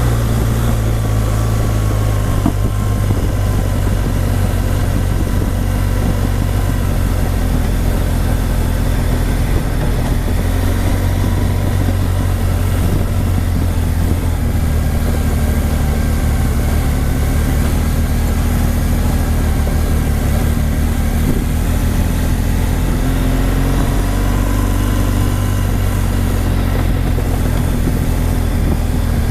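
Adventure motorcycle engine running at steady, low revs while riding a dirt trail, with a slight rise in pitch late on.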